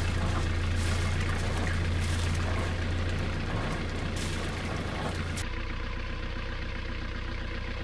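Sailboat's inboard diesel engine running steadily just after being started, with its freshly refitted seawater pump back on. It gives a deep, even hum, and the tone shifts slightly a little over five seconds in.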